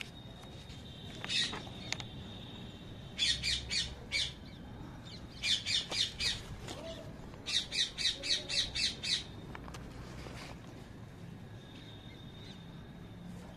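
A bird squawking: one harsh note, then three quick runs of repeated squawks, about five or six notes a second, the last run the longest.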